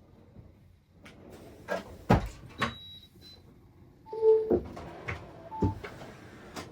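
Kitchen cupboard doors opening and closing with sharp knocks and clicks, with a brief squeak about four seconds in, as the cupboards are searched.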